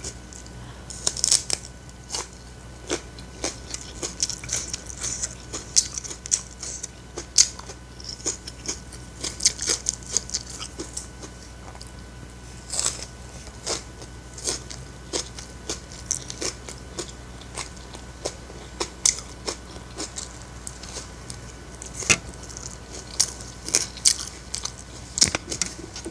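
Close-miked chewing of fried rice, with irregular wet mouth smacks and clicks.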